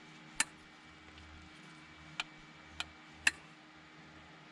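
Four light, sharp clicks and taps of engine parts being handled, spaced unevenly over a faint steady hum.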